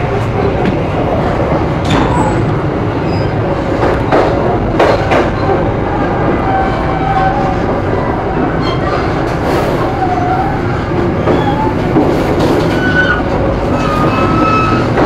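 Sancaka Sore executive-class passenger train running, heard from aboard a coach: a steady rumble with a handful of sharp clacks from the wheels over the rails and a few faint, brief wheel squeals.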